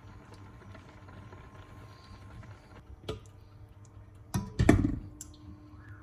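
Household handling sounds: a single click about three seconds in, then two heavy knocks close together, followed by a faint steady hum.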